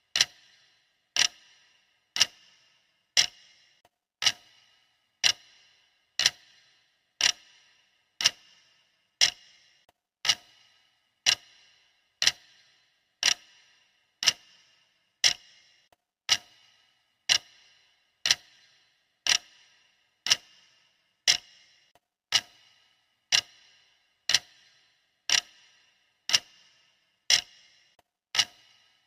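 Clock ticking steadily, one sharp tick a second with a short ring after each.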